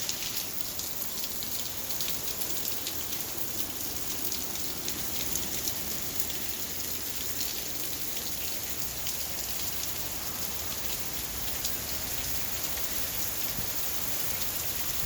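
Rain from a hurricane falling steadily, with many sharp ticks of drops striking a surface close by.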